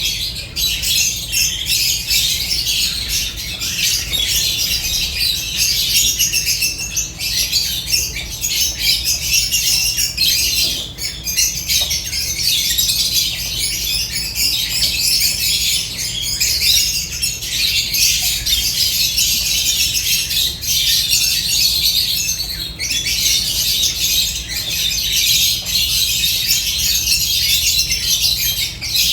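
A flock of lovebirds chattering and squawking together in a dense, unbroken stream of high, shrill calls, with a low hum underneath.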